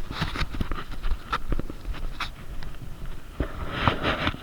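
A person breathing hard while walking, with irregular rustles and knocks of steps and handling.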